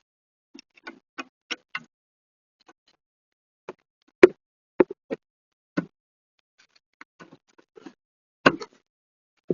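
Irregular clicks and knocks of tools and parts being handled during rear brake work, about twenty short hits, the loudest about four seconds in and another cluster near the end.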